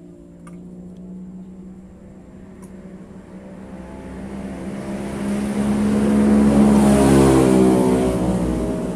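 Engine sound of a motor vehicle, a steady hum with a rushing noise that grows louder to a peak about seven seconds in, then eases off.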